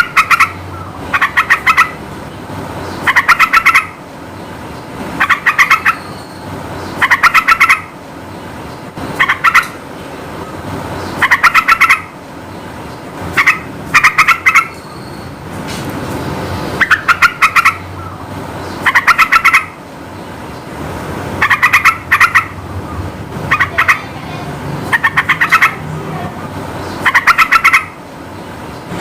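Yellow-vented bulbul (trucukan) singing: short, loud phrases of rapid bubbling notes, repeated every second or two, over a low steady background noise.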